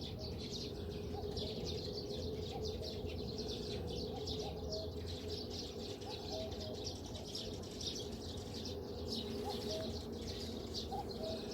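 Common cuckoos calling their two-note "cuck-oo", a higher note falling to a lower one, repeated every second or two. Behind them is a dense chatter of high-pitched chirping from smaller songbirds.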